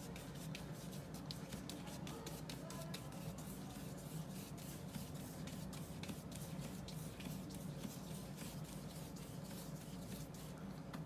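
Oil-paint brush dabbing and scrubbing alizarin crimson onto black-gessoed multimedia paper: a continuous run of faint, quick scratchy strokes.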